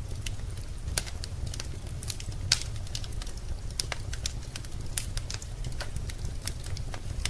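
Wood fire burning in a fireplace, crackling with irregular pops over a steady low rumble; one sharper pop comes about two and a half seconds in.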